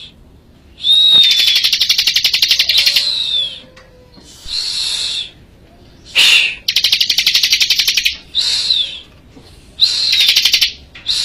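Ciblek (bar-winged prinia) singing vigorously: repeated bouts of a rapid, rattling high trill about a second or two long, several of them opening with a short downward-slurred whistle, with brief pauses between bouts.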